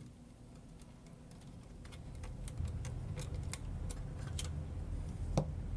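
Light clicks and ticks of small plastic camcorder parts being handled as the control panel is worked loose and unplugged, with a sharper click near the end. Under them runs a low rumble of handling noise that grows louder about two seconds in.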